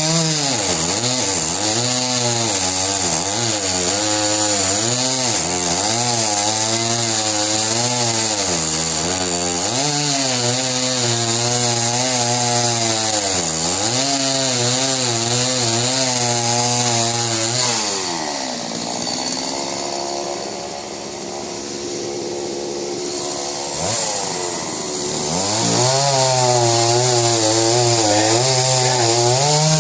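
Two-stroke petrol chainsaw cutting wood, its engine pitch rising and falling as it revs and bogs under load in the cut. About eighteen seconds in it drops back to a lower, quieter running speed for several seconds, then revs up again near the end.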